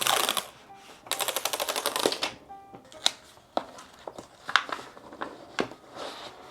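A package being opened and handled: a brief rustle, then a rapid ratcheting run lasting about a second, then scattered clicks and taps.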